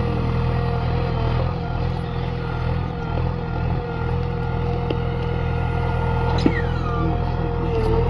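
Diesel engine of heavy earth-moving machinery running steadily, with a steady higher whine over it and a short falling squeal about six and a half seconds in.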